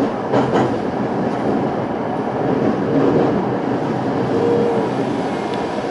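Toei 5300 series electric train running at speed, heard from inside the car: a steady wheel-on-rail rumble with a couple of rail-joint clicks about half a second in.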